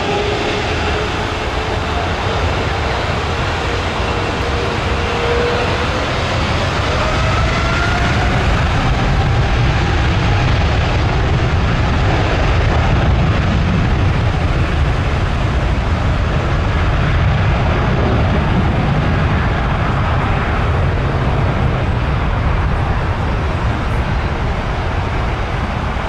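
Jet airliner engines rumbling loudly as the aircraft passes low overhead, with a whine that rises in pitch around six to eight seconds in.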